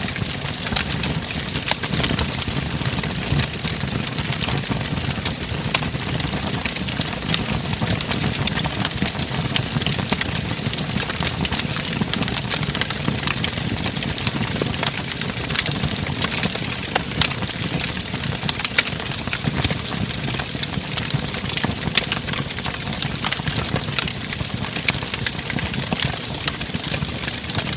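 Wood fire burning in a fireplace: a steady low rush of flames with continual sharp crackles and pops from the burning logs.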